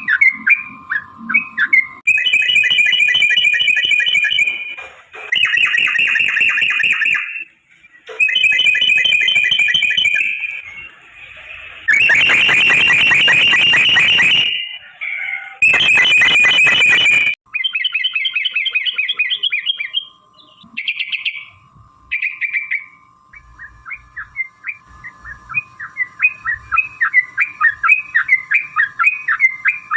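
Yellow-vented bulbuls (trucukan) singing: long, rapid rolling chatter phrases of two to three seconds each, repeated several times with short gaps. In the second half they give way to a fast run of short repeated notes over a faint steady tone.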